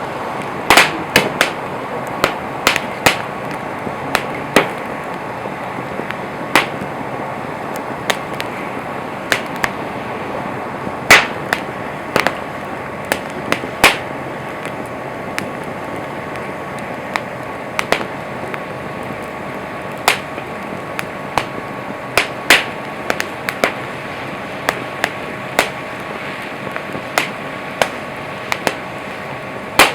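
Wood campfire crackling loudly: a steady hiss of burning wood with sharp pops and snaps at irregular intervals, often several within a second or two.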